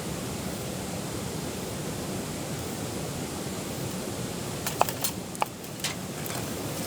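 Steady rushing background noise, with a few short clicks and light ringing clinks about five seconds in.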